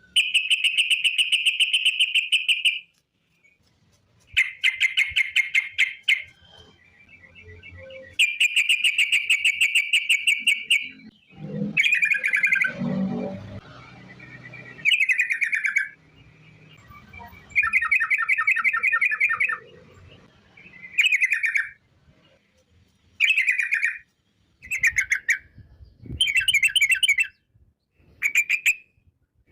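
Yellow-vented bulbul (trucukan) singing a fast rolling trill song, given in repeated bursts of one to three seconds with short pauses between them.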